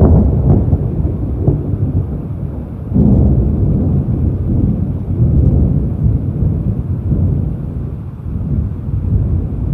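Thunder from a tropical storm: a loud, deep rumble that breaks suddenly, swells again about three seconds in, and rolls on, gradually easing.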